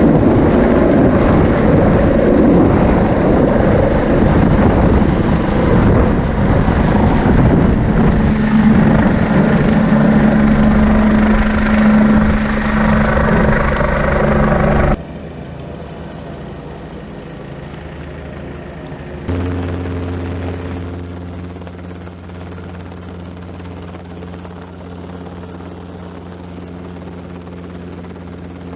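Helicopter in flight: a loud rushing rotor and engine noise that drops abruptly about halfway through to a quieter, steady low hum.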